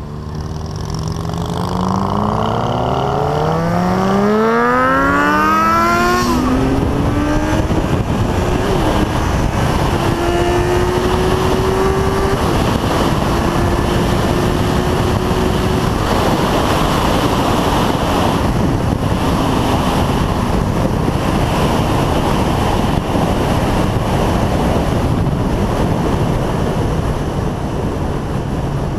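A motorcycle engine accelerating hard, its pitch climbing steeply through the revs for the first six seconds, then running at steady speed under heavy wind noise.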